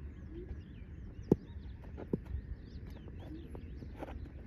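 Birds chirping over a low background rumble. A sharp knock about a second in is the loudest sound, and a fainter one follows shortly after.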